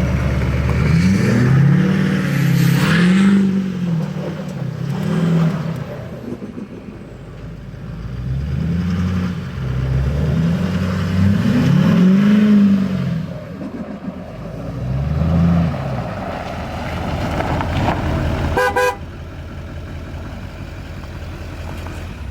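A vehicle engine being revved over and over, its pitch climbing and falling in quick repeated sweeps, in two clusters of revs. A sharp click comes near the end, after which a lower, steady running sound remains.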